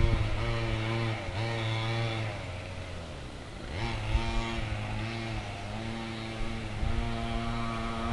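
Mini quad bike's small engine running, its pitch rising and falling a few times as the throttle is worked, dipping lowest and quietest a little past the middle.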